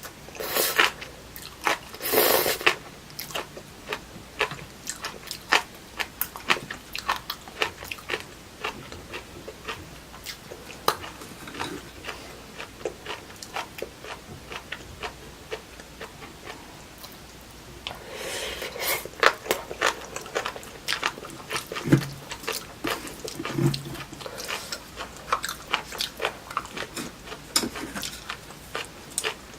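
Close-miked eating: chewing with wet mouth clicks and smacks, denser and louder near the start and again about two-thirds of the way through.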